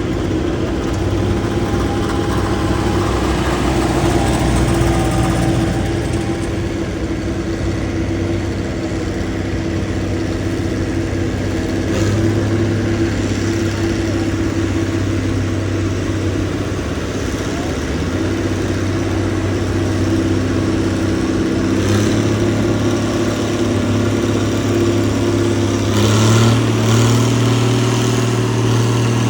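Tractor engine running steadily under power, its pitch stepping up a few times, most sharply near the end.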